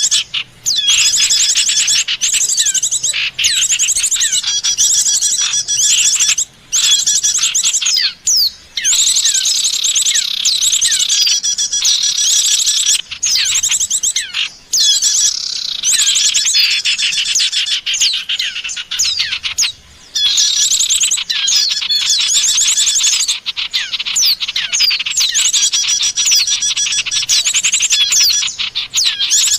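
Bird-luring call recording: dense, overlapping chirps and rapid trills of small songbirds, broken by a few brief pauses.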